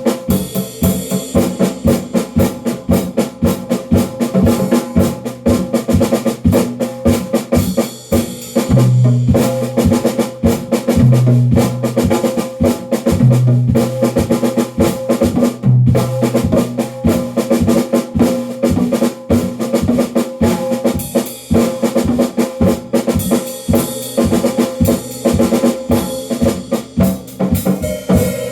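Drums played continuously in a fast, dense stream of strokes, with a deeper ringing tone coming in for a moment every couple of seconds in the middle stretch.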